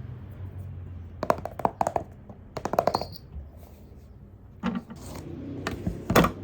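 Objects being handled and set down on a hard surface: several clusters of light knocks and clicks, the sharpest about a second and a half in, about three seconds in and near the end.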